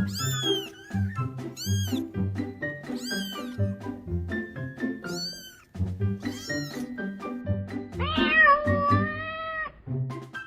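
Cat meowing repeatedly in short, very high-pitched mews, with one longer, lower meow about eight seconds in, over background music with a steady bass beat.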